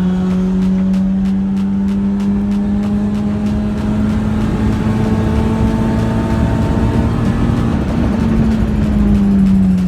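A car engine running at high revs with one steady note that climbs slowly. The pitch falls away near the end. Rapid faint ticks sound over it in the first few seconds.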